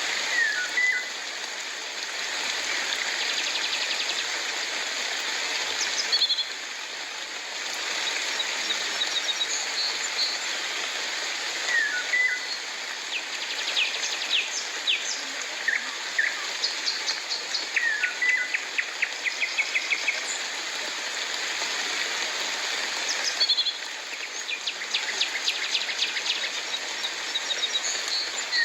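Steady hiss of rainfall with several birds calling through it: short falling chirps that recur every few seconds and quick rattling trills.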